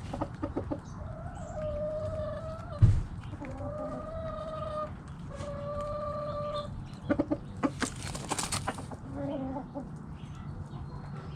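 Backyard chickens calling: three drawn-out, level-pitched calls in a row, then a run of short clucks. A sharp thump comes about three seconds in, and a brief rushing noise comes just after the clucks.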